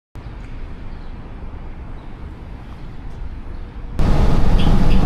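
Steady low rumble of vehicle traffic. About four seconds in it cuts abruptly to a much louder rumble with faint, repeated high squeaks.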